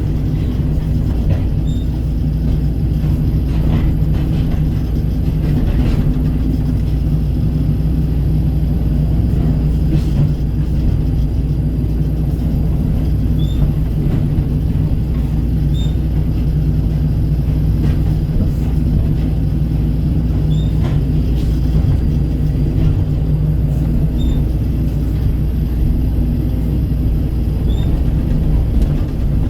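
Kobelco excavator's diesel engine running steadily with a low hum, with a few faint knocks and clanks.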